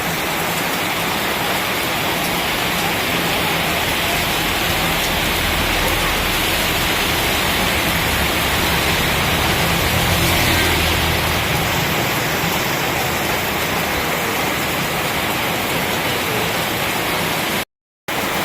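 Heavy rain pouring down steadily, an even dense hiss. The sound cuts out completely for a moment near the end.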